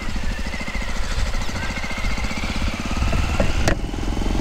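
Motorcycle engine running with a fast, even beat. A sharp click comes about three and a half seconds in.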